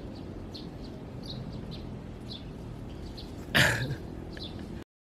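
Small birds chirping with short, repeated high calls over a steady outdoor background. About three and a half seconds in, a person makes one brief, loud vocal sound, and the sound cuts off just before the end.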